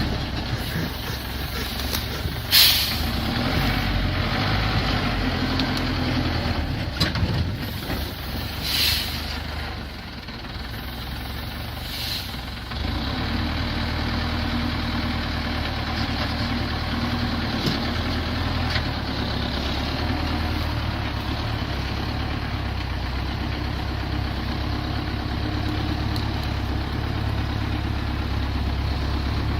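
Heavy engine running steadily with a low hum, broken by three short hisses: about two and a half seconds in, about nine seconds in and about twelve seconds in.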